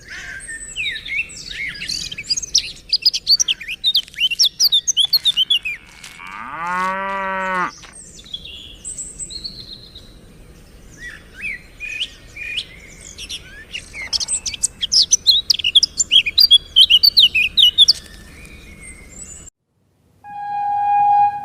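Many small birds chirping and twittering, with a cow mooing once about six seconds in. Near the end the birdsong stops and a steady horn tone starts.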